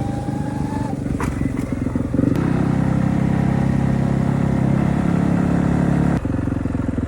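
Dirt bike engine running at a fairly steady speed, with a brief dip about two seconds in.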